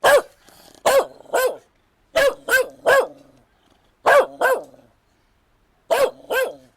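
A dog barking: ten sharp barks in short runs of one, two or three, with brief pauses between the runs.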